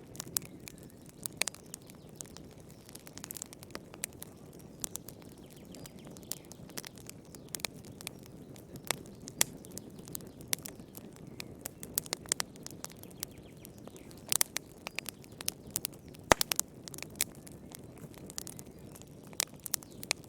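Wood fire crackling, with frequent irregular sharp pops and snaps over a soft steady rumble of flame; one louder pop about three-quarters of the way through.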